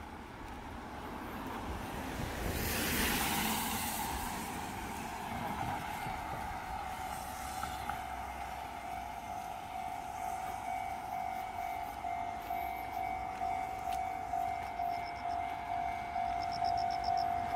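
Railway sounds: a short passing noise, then a steady ringing tone that pulses about one and a half times a second and grows louder.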